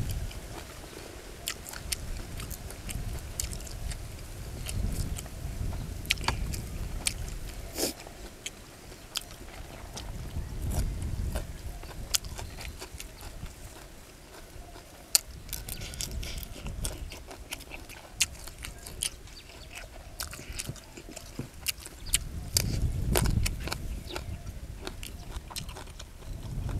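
A person chewing and biting mouthfuls of shrimp larb with fresh leaves close to the microphone: many short, sharp wet clicks and smacks, with occasional low rumbles.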